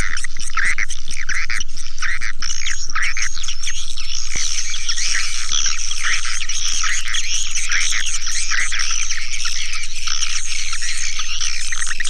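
Swiftlet calling sound: dense, continuous high-pitched twittering and chirping from many swiftlets, with short chirps repeating several times a second, used as a lure to draw swiftlets into a nesting house.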